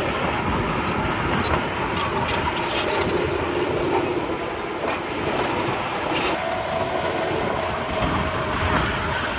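Komatsu D31P crawler bulldozer running steadily under work, its diesel engine sounding with scattered metallic clanks and knocks.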